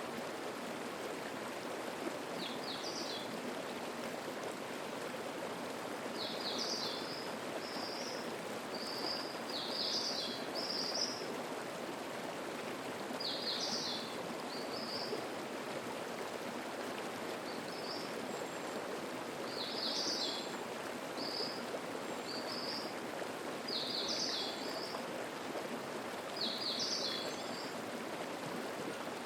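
Mountain stream running steadily over rocks. A small songbird sings short high phrases over it every few seconds.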